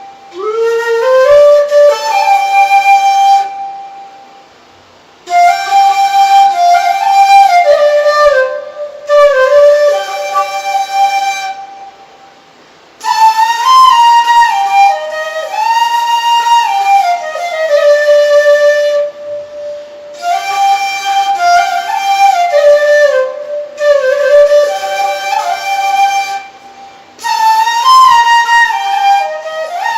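Music: a slow solo melody on a wind instrument, played as held notes that slide up into pitch, in phrases broken by short pauses.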